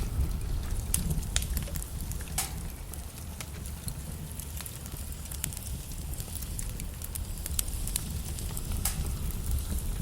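Wood logs burning in a fireplace: a steady low rumble of flames with irregular sharp crackles and pops, one louder pop about two and a half seconds in.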